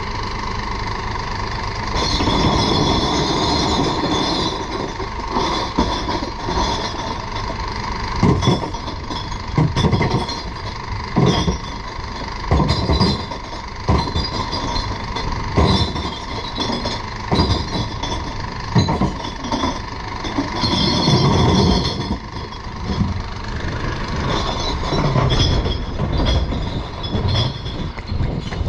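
Glass recycling truck running steadily, with a long series of crashes and clinks of glass bottles tipped into it, about one every second.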